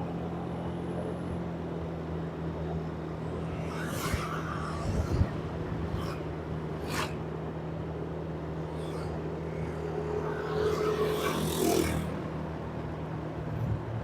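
Motor vehicle engine running steadily on the move in traffic, a constant low hum, with several brief louder whooshes, the biggest about 10 to 12 seconds in.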